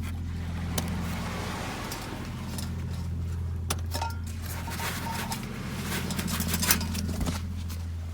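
Boat engine droning steadily at a low pitch, with scattered metallic clinks and rattles over it, the sharpest a little before the end.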